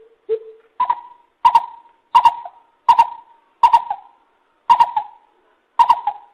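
Lesser coucal calling: a low hollow note, then a series of louder, higher hollow notes about every 0.7 s.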